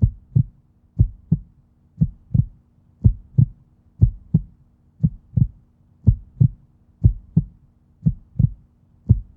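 Heartbeat sound effect: paired low thumps, lub-dub, about one pair a second, over a faint steady low hum.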